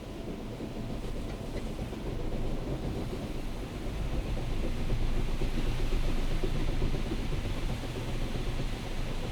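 Automatic car wash machine running: a steady rumbling, hissing noise that grows louder over the first few seconds and then holds.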